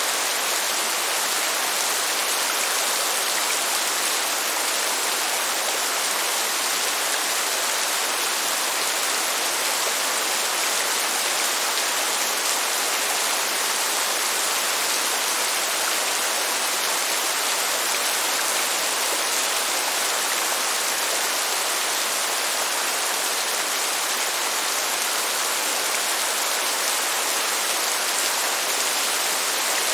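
Steady heavy rain: a constant, even hiss with no thunder and no distinct drops standing out.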